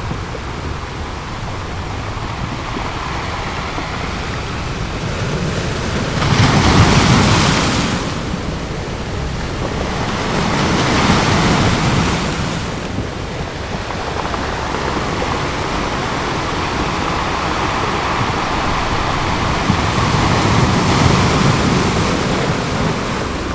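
Ocean waves breaking on a beach: a steady wash of surf with three waves swelling and falling away, the first, about a quarter of the way in, the loudest.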